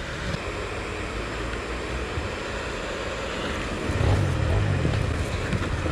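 Enduro motorcycle engine running under a rider over rough ground, mixed with wind noise. The engine gets louder about four seconds in.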